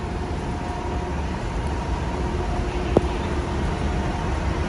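Steady low rumble of city and machinery noise with a faint steady hum, and a single click about three seconds in.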